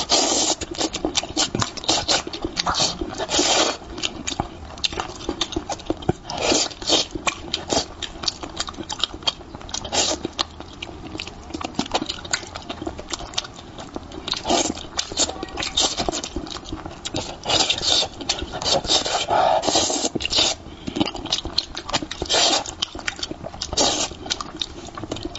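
Close-miked eating sounds of a person chewing and slurping spicy braised fish: wet mouth clicks and short bursts in quick irregular clusters.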